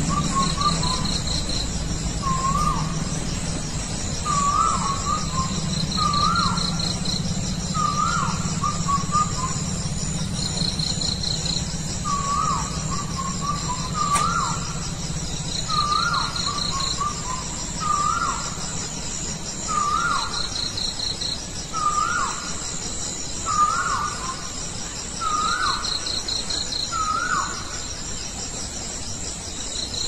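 A bird calling at night: one short, hooked note repeated about every one and a half seconds, with a brief pause about a third of the way through.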